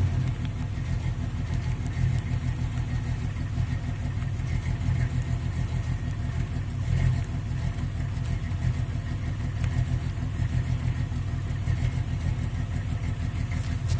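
Jeep Cherokee XJ's 4.0 straight-six idling unevenly, stumbling and sputtering with irregular swells in loudness: a misfire caused by water in the distributor.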